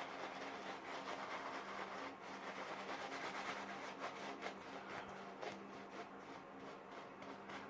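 Faint rubbing and handling noise with scattered light clicks, over a steady low hum.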